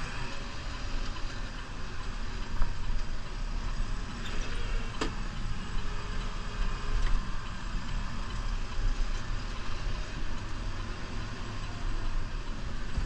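Diesel engine of a New Holland Powerstar 75 tractor running steadily under load while plowing snow, with a couple of short sharp knocks along the way.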